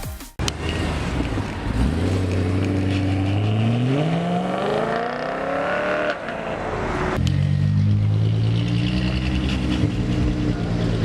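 Car engine accelerating, its pitch rising steadily over about four seconds. About seven seconds in it changes abruptly to a steady, lower engine note.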